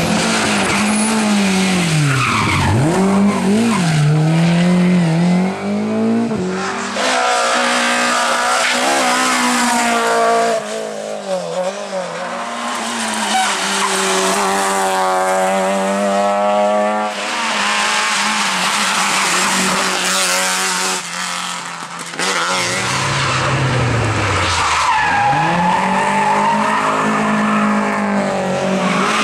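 Rally car engines revving hard, the pitch climbing and dropping again and again through gear changes and lifts, with tyre squeal and skidding on the stage.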